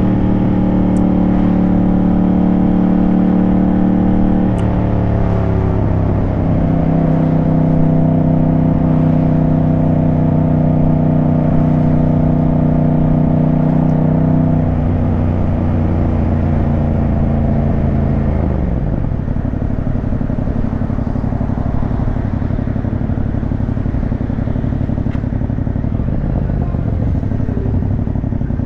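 Yamaha 689 cc parallel-twin motorcycle engine running at steady revs under way, with the revs dropping about four seconds in and falling again past the middle to a lower, rougher note.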